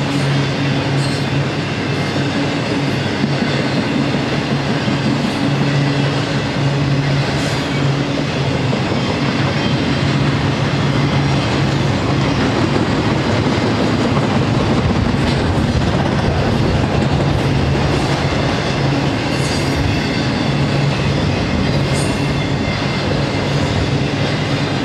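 Intermodal freight train of double-stacked containers and trailers on well cars rolling past at speed: a steady rumble of steel wheels on rail, with a few faint clicks from the wheels over rail joints.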